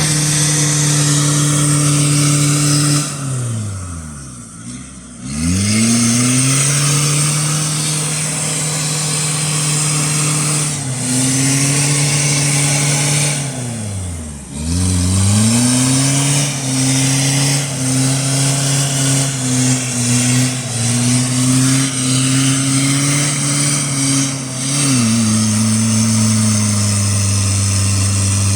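Motocross bike engine running at a steady pitch. Twice its note drops away and climbs back up as the throttle is closed and reopened, then near the end it settles to a lower, steady running note.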